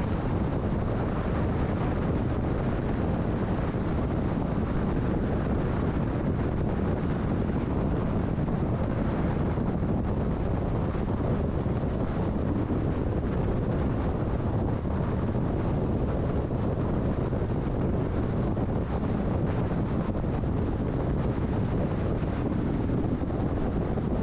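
Steady road and wind noise of a car driving at freeway speed, an even low rumble that does not change.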